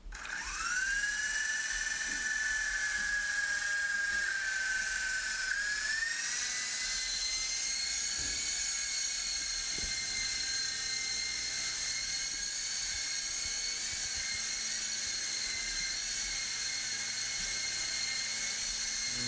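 Electric motors of a small 3-channel RC toy helicopter whining as the rotors spin up, rising in pitch at once and again about six seconds in, then holding steady in flight.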